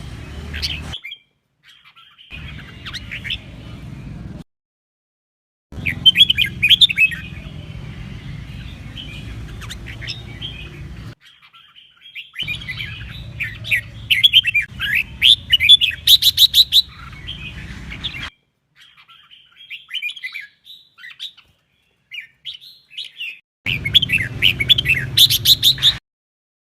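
Red-whiskered bulbul singing in a string of bursts of quick, chirping warbled phrases, one with a very rapid run of repeated notes. The song cuts off abruptly to dead silence several times between bursts.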